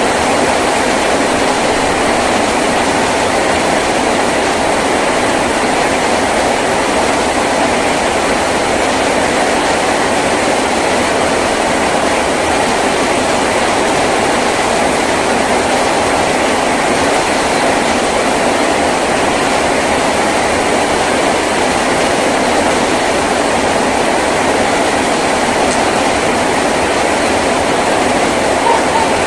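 Heavy rain drumming steadily on a tin roof, a dense, unbroken patter.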